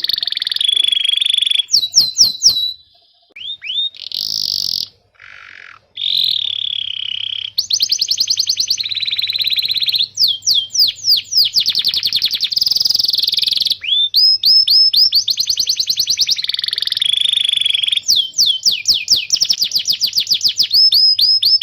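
Domestic canary singing: fast trills of falling whistled notes alternating with buzzy rolling phrases, broken by a short pause about three seconds in.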